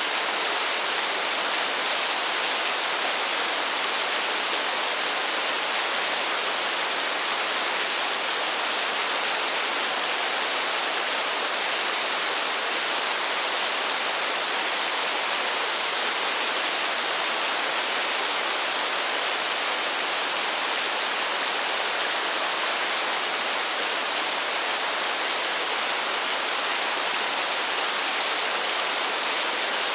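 Steady falling water, an even hiss with no single drops or splashes standing out.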